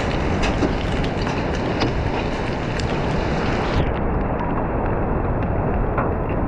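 Steady rushing of storm wind and driving noise inside a moving car, with scattered sharp ticks of hail striking the car.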